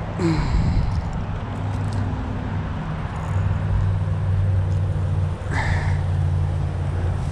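A motor running with a steady low hum, like a vehicle engine, growing stronger about three seconds in; a short rustling or rattling burst comes about five and a half seconds in.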